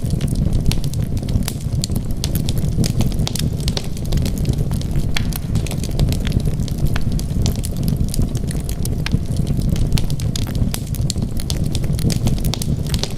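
Wood fire burning: dense, irregular crackles and pops over a steady low rumble of the flames.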